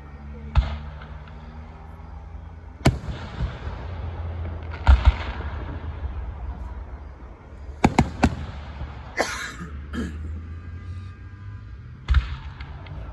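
Fireworks going off: a series of about eight sharp bangs, some in quick pairs, with a short hissing burst a little after the middle.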